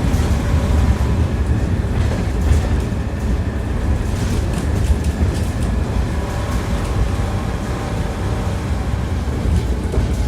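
Tram rolling along the track, heard from inside the car: a steady deep rumble with the clatter of its wheels on the rails.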